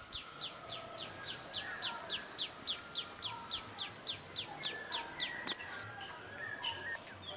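A bird calling in a fast, even series of short falling notes, nearly four a second, that stops about five and a half seconds in, with other birds chirping more faintly underneath.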